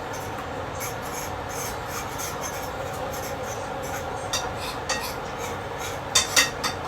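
Kitchen work: a steady hiss under a few sharp clinks of utensils or dishes, once about four seconds in, again near five seconds, and a quick louder cluster near the end.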